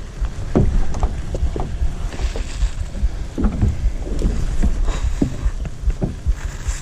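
Kayak paddle strokes: the blade dipping and splashing in the water with irregular short knocks, over a low wind rumble on the microphone.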